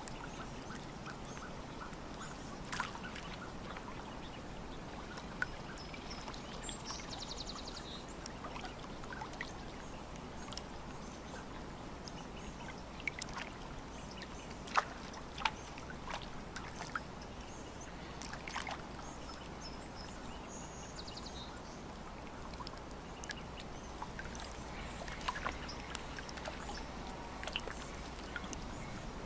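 Lake water lapping gently at the shore, with many small irregular splashes and drips. Two brief high chattering bird calls come through, about a third of the way in and again about two-thirds in.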